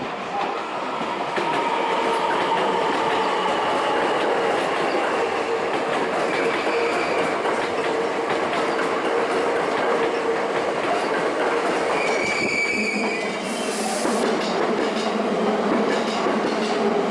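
Hankyu electric train running along the platform: steady rumble of wheels clacking over rail joints with a steady tone from the train, a brief high squeal about twelve seconds in and a short hiss about fourteen seconds in.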